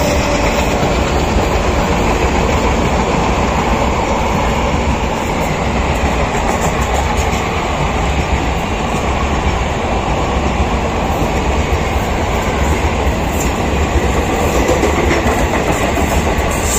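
Indian Railways passenger express, the 16311 Bikaner–Kochuveli Express, running at speed and heard from on board: a steady, loud noise of the wheels on the track and the moving coach.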